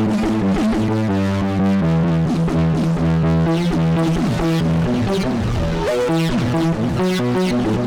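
UVI Synth Anthology 5 synthesizer lead preset playing a quick melodic line with gliding notes over sustained chords that change about every second, its distorted tone close to an electric guitar's.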